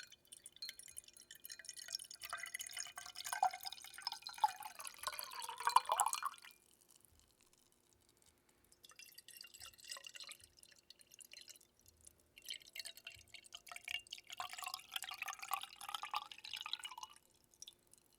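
Close-miked water dripping and splashing in three bursts: the first and loudest lasts about six seconds, a fainter one comes around the middle, and another comes near the end.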